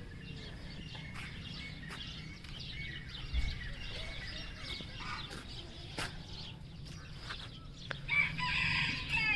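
A rooster crowing near the end, over faint chirping of other birds in the aviaries.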